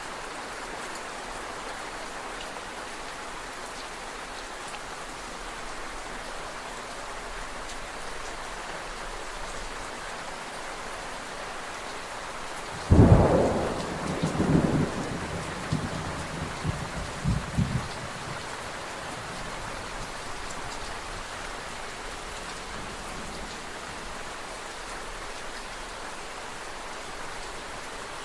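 Steady rain falling, with a thunderclap about halfway through that starts suddenly and rumbles on for about five seconds in several swells before dying away.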